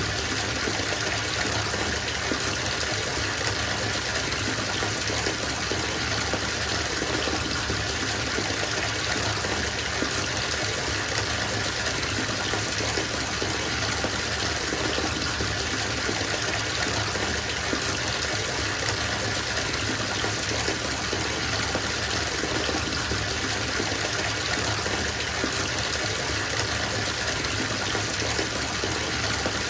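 Tap water running steadily into a bathtub as it fills, an even gushing and splashing that holds steady throughout.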